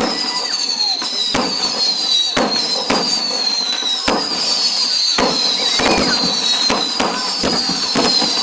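Fireworks going off: a run of falling whistles, roughly one a second, mixed with frequent sharp bangs and crackles.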